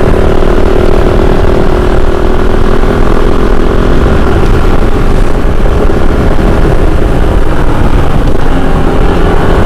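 Kove 450 Rally's single-cylinder engine running at a steady pace while riding, with a dense rush of wind noise over it.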